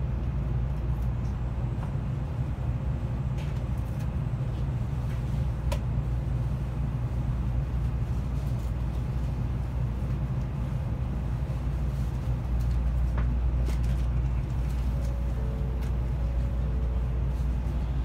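Steady low rumble of an N700A Shinkansen heard inside the passenger car as the train slows into a station, with a few faint clicks and two short faint tones near the end.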